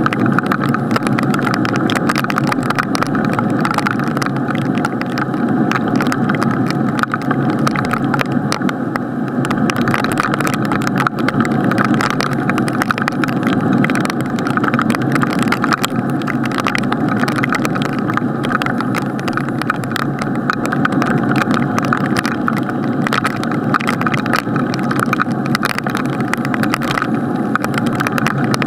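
Rain pelting a camera's sealed waterproof housing, heard from inside the case: a loud, steady, muffled patter of countless drops striking the plastic.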